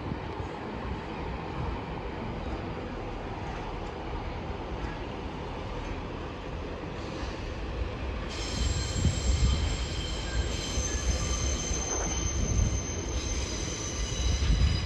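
Diesel multiple unit train, with a Class 143 Pacer among its units, running through the station with a steady rumble. About eight seconds in its wheels start squealing on the rails in several high, steady tones.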